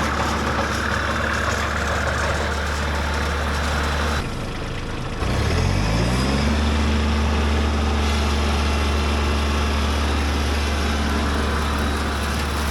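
Kubota B2601 compact tractor's three-cylinder diesel engine running steadily. About four seconds in the sound changes abruptly, and a second later the engine revs up over about a second and a half to a steady higher speed.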